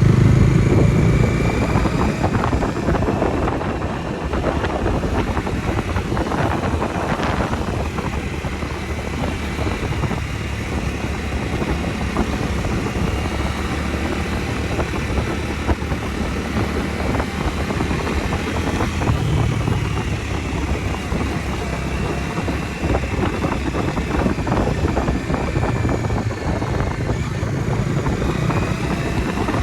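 Bajaj Dominar 250's single-cylinder engine running while riding, with wind rushing past. It is loudest at the start, eases off within the first few seconds, then holds steady.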